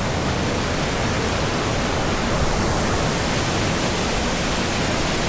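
A small waterfall: the steady rush of falling water.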